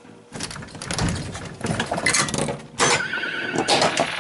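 Pinball machine solenoids firing one after another in a fast string of mechanical clacks and knocks: the machine's ball search, which tries to free a ball it thinks is stuck. A held electronic tone from the machine sounds near the end.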